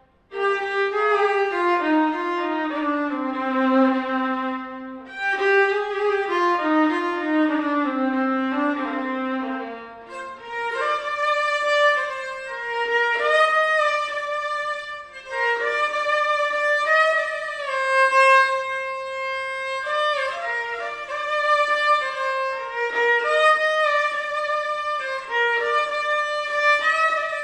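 Santali behla banam, a bowed fiddle, playing a solo melody with sliding notes. For the first ten seconds the tune stays low, then it moves up an octave and carries on in the higher register.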